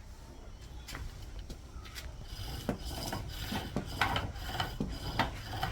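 Irregular scraping strokes, a few a second, getting louder about two seconds in, over a low steady rumble.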